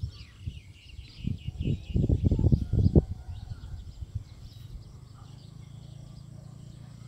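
Birds chirping, with a few loud low rumbles around two to three seconds in, then a steady low drone from about four seconds on.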